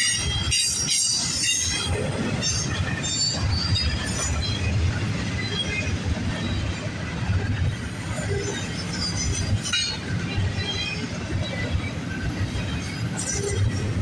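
Double-stack intermodal freight train's well cars rolling past: a steady rumble of steel wheels on rail, with short high-pitched wheel squeals now and then, mostly in the first few seconds and again near the end.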